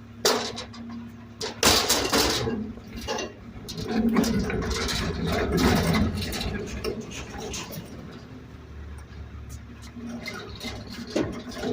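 Garbage truck at work: the engine runs steadily under sharp bangs and clatter of trash and cans being handled at the hopper. There are two loud bangs near the start and a louder, longer stretch of clatter in the middle.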